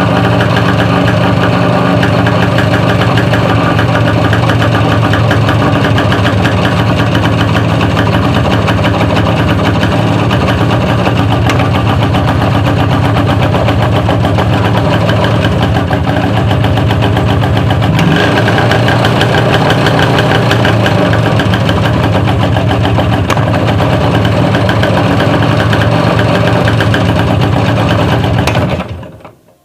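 IZh Planeta motorcycle's single-cylinder two-stroke engine running in second gear, its raised rear wheel held back by the brake so the drivetrain is under load. Single knocks from the gearbox come about 11, 17, 23 and 28 seconds in: a gearbox fault that shows only under load. The engine stops near the end.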